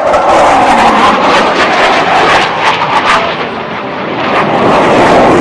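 Blue Angels F/A-18 Hornet jets passing low, a loud jet engine roar with rough crackle that dips briefly near the end and then swells again.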